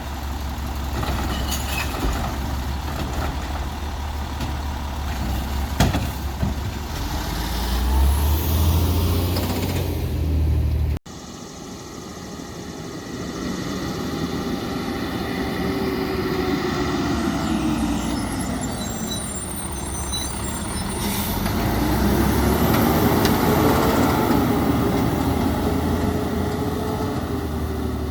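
Peterbilt 320 side-loader garbage truck running, with its low engine rumble and a few knocks. About eleven seconds in the sound cuts abruptly to another shot, where the engine note slowly falls and then rises again.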